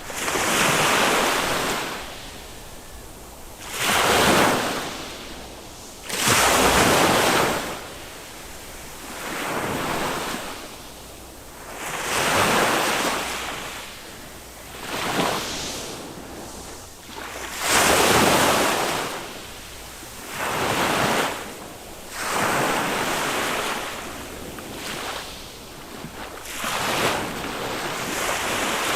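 Small waves of a calm Mediterranean sea breaking on a sandy beach. Each wave swells up and washes out over a second or two, about every two to three seconds.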